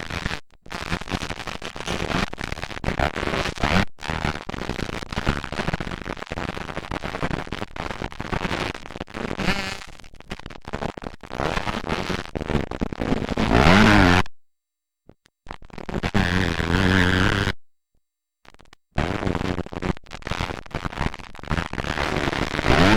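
Motocross dirt bike engines racing on the track, revving up and down, with one bike's pitch rising sharply a little past the middle. The sound cuts off abruptly to silence twice in the second half.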